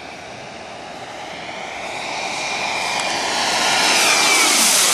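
Radio-controlled model jet making a fast pass. Its high whine grows steadily louder as it approaches, then drops in pitch as it goes by near the end.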